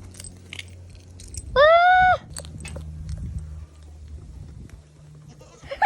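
A young goat bleats once, a single pitched call about half a second long that rises at its start, about a second and a half in. Scattered light clicks and rustles come before and after it.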